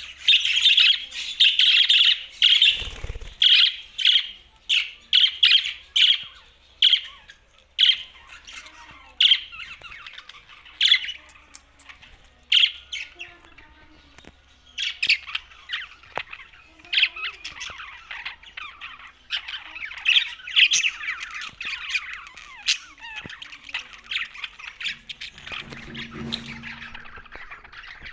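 Budgerigars chirping and chattering in quick, sharp, high calls, coming thick at first, thinning out in the middle, then building into busy warbling again. A brief low thump is heard about three seconds in.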